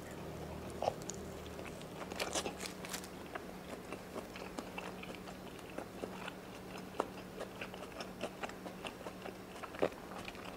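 A person chewing a mouthful of double cheeseburger, with irregular small wet clicks and crunches of the mouth, over a faint steady hum.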